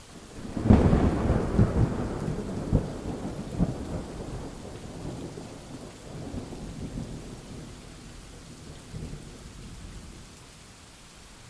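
Steady rain with a clap of thunder breaking in under a second in: sharp cracks for the first few seconds, then a low rumble that fades away over several seconds.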